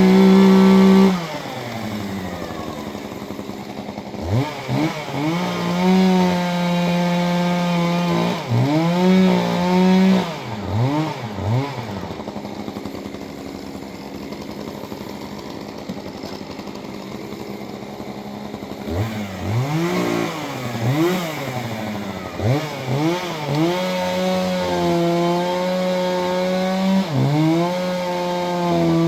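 Two-stroke chainsaw at full throttle that drops to idle about a second in, then is revved up and down again and again. Between the revs it is held at full speed for a few seconds at a time, as when cutting limbs.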